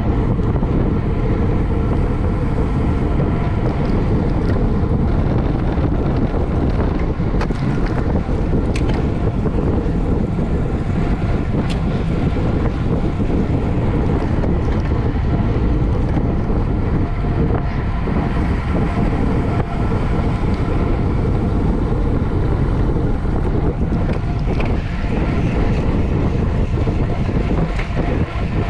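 Loud, steady wind rush buffeting the microphone of a camera riding along on a racing bicycle at speed, with road and tyre noise underneath and a few faint clicks.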